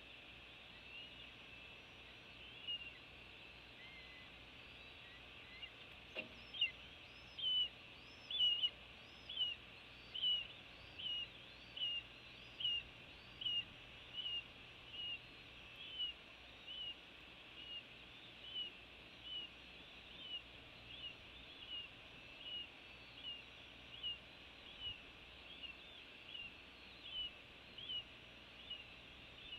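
A bird repeating short, high, hooked chirps a little more than once a second, the first loud ones starting about six seconds in right after a single knock.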